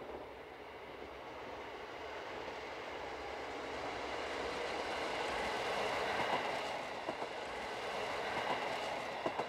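KiHa 40 diesel railcar passing on the track, its running noise growing steadily louder to a peak a little past the middle. Several sharp clicks of the wheels over rail joints come in the second half.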